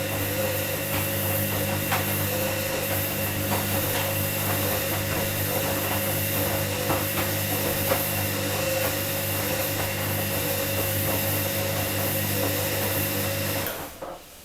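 Washing machine motor running with a steady hum and hiss and a few light ticks, then cutting off abruptly near the end.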